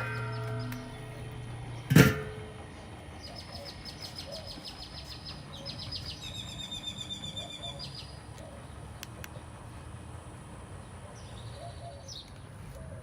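Outdoor ambience with birds trilling in rapid, repeated high notes several times, over a low steady hum. A single sharp clack comes about two seconds in.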